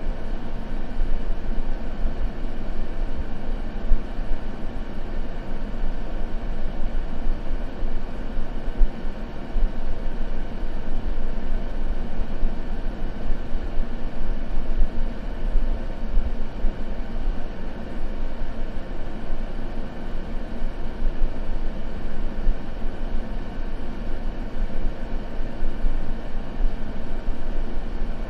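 Continuous white noise for sleep: a steady, even rushing that sits deep and low, with little hiss at the top, and does not change.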